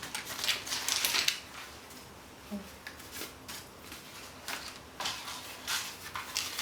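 Light clattering and rustling of small hard objects being moved about: a dense cluster of clicks about half a second to a second and a half in, then scattered single clicks.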